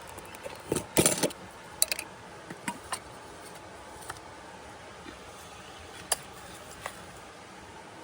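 Clinks and clatters of small hard objects being handled while coffee is made: a short rattling cluster about a second in, then a few separate knocks and ticks spread through the rest.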